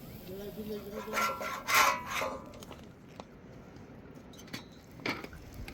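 A few rough scraping strokes, starting about a second in and lasting about a second and a half, with one more short scrape near the end.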